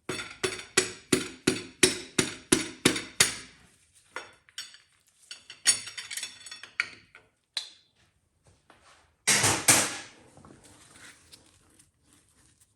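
A 2-foot steel socket extension tapping a piston and connecting rod out of the bore of an LT1 small-block V8. About ten sharp ringing metal taps come at roughly three a second, then scattered clatter, and a louder, longer clatter about nine seconds in.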